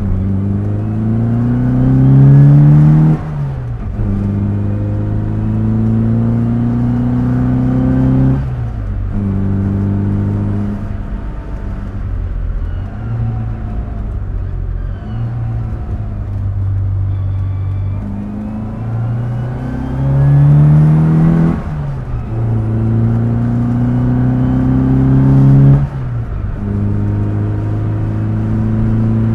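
1966 Austin Mini Cooper S's A-series four-cylinder engine pulling through the gears while driving. The revs climb and then drop sharply about four times at gear changes, with steadier running between.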